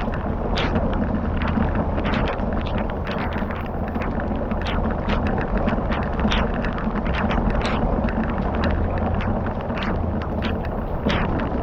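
A fire crackling, with irregular sharp pops a few times a second over a steady low rumble.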